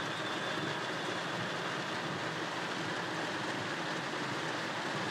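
Heavy rain falling on a car's roof and windscreen, heard from inside the cabin as a steady, even hiss.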